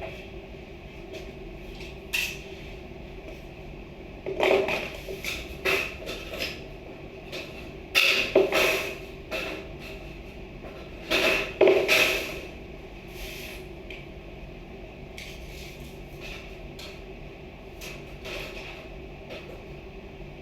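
Irregular knocks and clatter of hard objects being handled or set down, in several short clusters, over a steady background hum.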